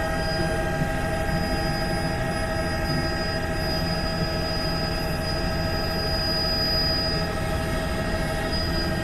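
Helicopter in flight: a steady low drone with several steady whining tones over it, unchanging throughout.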